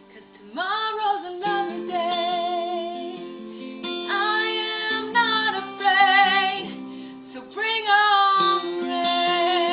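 A woman singing long held notes with vibrato, each of three phrases sliding up into its note, over strummed acoustic guitar.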